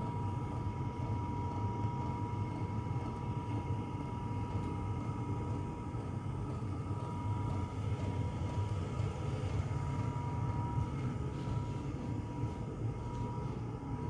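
An 8 kW diesel air heater running steadily on its lowest setting: a low hum of burner and fan with a thin, steady whine above it.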